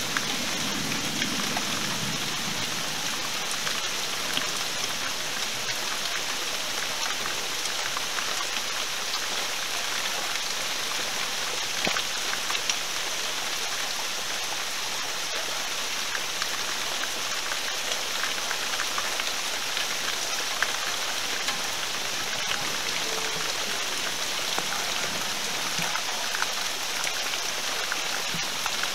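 Steady rain falling during a thunderstorm, with individual drops ticking close by. A last low rumble of thunder fades out in the first couple of seconds.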